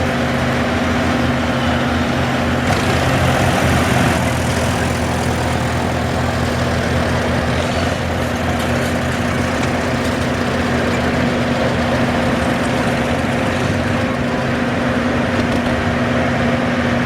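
Farm tractor engines running at a steady pitch as a parade of tractors rolls past, an unbroken engine drone.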